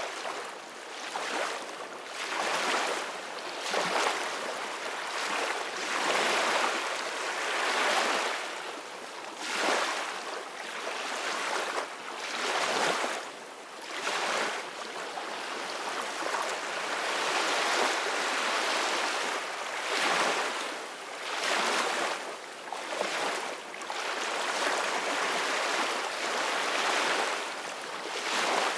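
Ocean waves breaking and washing in continuously, the surf swelling and easing every couple of seconds.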